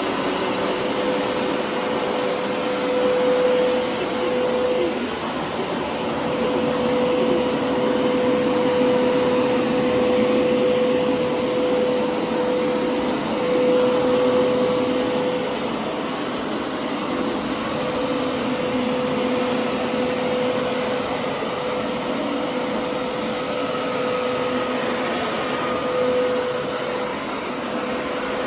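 Hoover carpet washer running in deep-clean wash mode, its motor making a steady drone with a constant hum and a high whistle. The level swells and eases every few seconds as it works over the carpet.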